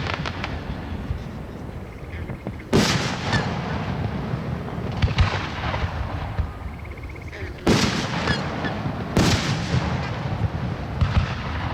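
Aerial firework shells bursting: five loud bangs spaced about two seconds apart, each trailing off in an echoing rumble, over a steady low rumble between them.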